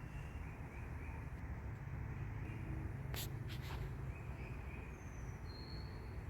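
Outdoor ambience with a steady low rumble, two sharp clicks a little after three seconds in, and two short high bird notes near the end.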